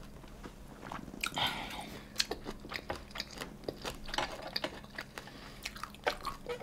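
A person chewing and biting food, with irregular wet mouth clicks and smacks.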